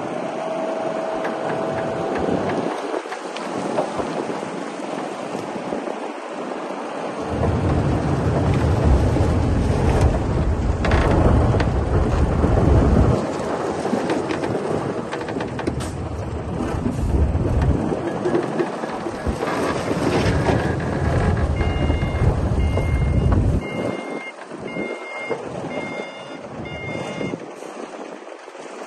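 Komatsu D60P bulldozer's diesel engine working, its deep rumble swelling twice for several seconds at a time, with wind buffeting the microphone. Near the end a reversing alarm beeps at an even pace.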